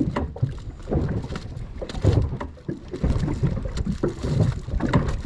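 Water slapping against a small boat's hull at sea, with wind buffeting the microphone in uneven gusts.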